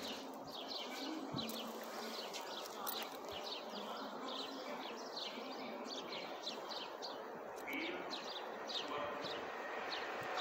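Small birds chirping, many short repeated calls, over faint steady background noise.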